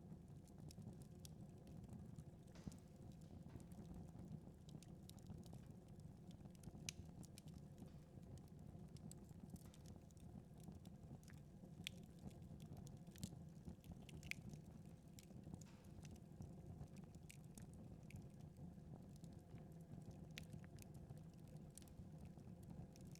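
Wood fire in a fireplace crackling faintly, with scattered irregular pops over a low steady hum.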